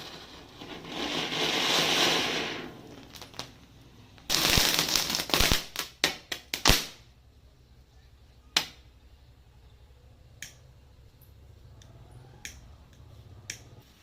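A matchstick chain reaction flaring with a hiss, then small firecrackers going off in a quick string of sharp pops and cracks, followed by a few scattered single pops.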